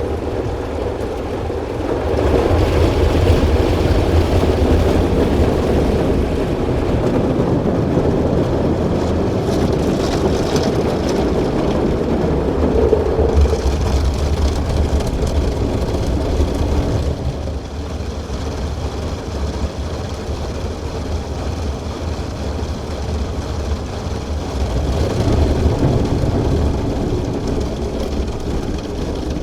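Christ Auto-Jet C115 car wash working over the car, heard from inside the car: a steady machine hum under the rushing noise of water spraying onto the body. It gets louder about two seconds in, eases off about seventeen seconds in, and swells again near the end.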